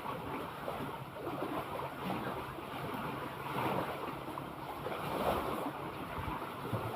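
Sea waves washing, with wind noise on the microphone.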